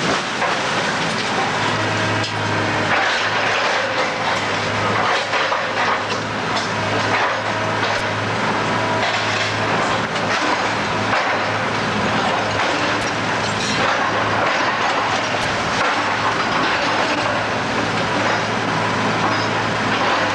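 Building demolition by heavy machinery: a steady diesel engine hum under continuous crunching and cracking of breaking debris, with scattered sharp cracks.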